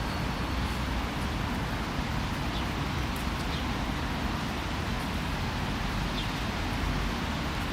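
Steady outdoor background hiss on a day of drizzling rain, with a few faint, short bird chirps.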